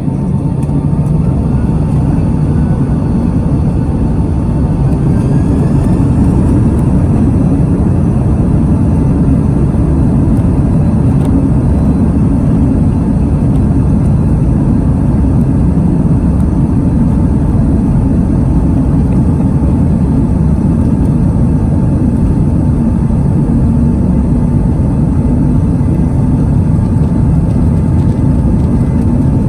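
Boeing 767 jet engines and rushing air heard inside the cabin: a loud, steady roar with a thin, steady whine. It builds over the first few seconds and then holds, as at takeoff thrust.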